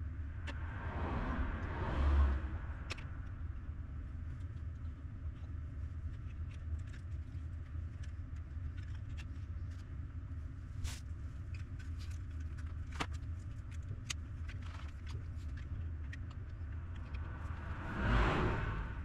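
Road traffic: a steady low rumble, with two vehicles swelling past, one about two seconds in and one near the end, and scattered light clicks.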